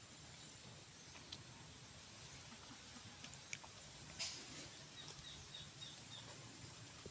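Outdoor ambience with a steady high-pitched insect drone, a few sharp clicks, and a run of short, quick high chirps from about five seconds in.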